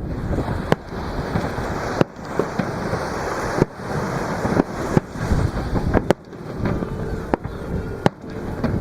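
Fireworks bursting in a string of sharp bangs, about one every second, over the steady wash of waves breaking at the shoreline.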